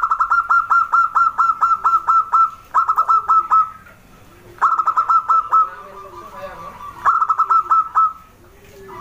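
Zebra dove (perkutut) calling: four bouts of quick, staccato cooing notes, about four or five a second, with short pauses between the bouts.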